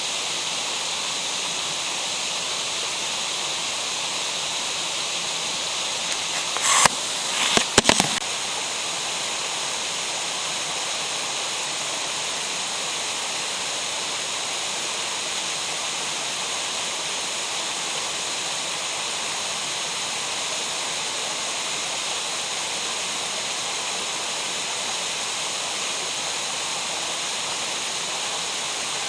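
Steady rush of falling and flowing water in a mountain gorge, even throughout. A few brief sharp knocks sound about seven to eight seconds in.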